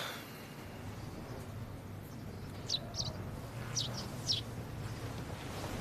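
Small birds chirping: a handful of short, high chirps in two little clusters about a second apart, over a faint low hum.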